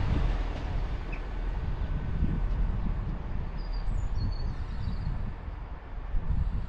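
Diesel multiple unit pulling away and fading into the distance, with gusts of wind buffeting the microphone. A few short bird chirps come about halfway through.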